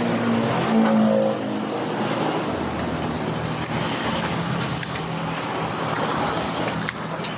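A motor vehicle engine running steadily, its pitch rising briefly in the first second or so.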